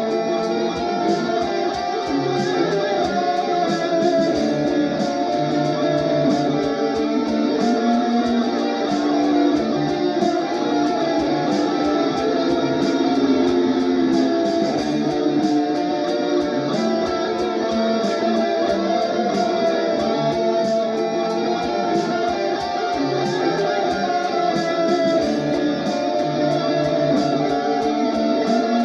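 Electric guitar played through a Valeton GP-200 multi-effects processor, improvising a continuous run of notes over a steady drum-machine beat that ticks about twice a second.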